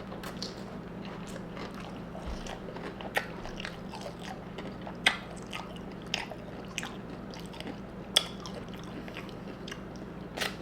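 Chewing on tortilla-chip nachos topped with chipotle sauce and vegetables, with loud, sharp crunches every second or two over a steady low hum.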